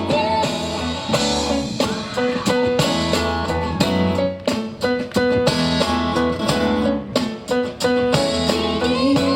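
Live band playing an instrumental passage without vocals: a guitar riff of short repeated notes over a steady drum beat.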